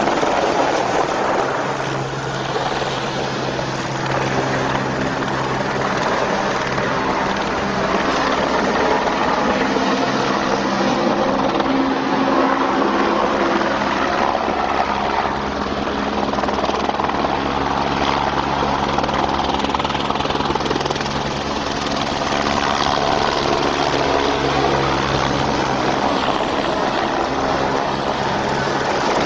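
Firefighting helicopter's rotor and engine running steadily, a loud continuous whir over a low droning hum.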